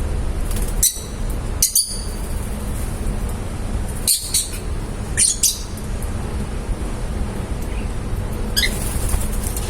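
Lovebirds giving short, sharp, high-pitched chirps, about five separate calls spread across a few seconds, over a steady low background rumble.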